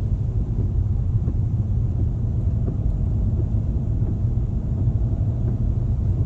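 Car driving along a road: a steady low rumble of engine and tyre noise heard from inside the cabin.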